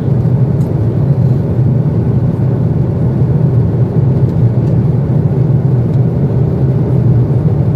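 Steady drone of an airliner cabin in flight: engine and airflow noise heard from inside the cabin, a deep even rumble that does not change.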